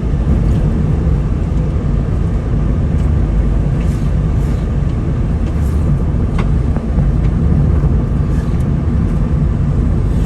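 A moving car's engine and tyres on the road, making a steady low rumble with a few faint ticks.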